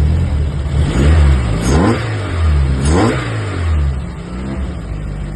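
Rebuilt VW Polo 1.4 four-cylinder petrol engine running just after its first start on new aftermarket engine management, revved twice, rising and falling about a second in and again about three seconds in, then settling back to idle.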